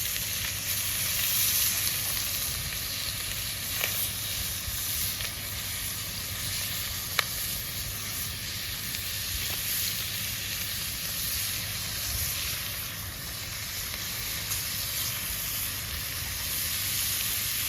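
Shark fillets frying in butter in a cast iron pan over a campfire: a steady sizzle with a couple of sharp pops.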